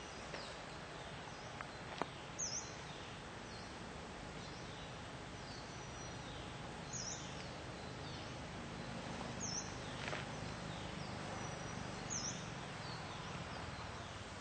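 Forest background with a bird giving a short, high call repeated about every two and a half seconds, and fainter falling whistled notes in between.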